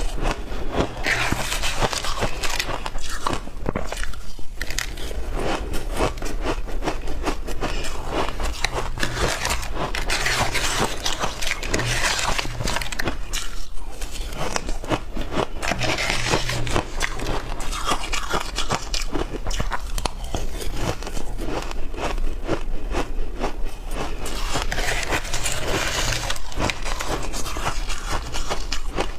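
Shaved ice being bitten and chewed close to the microphone: a dense run of crisp crunches and crackles, with louder bursts of crunching every several seconds.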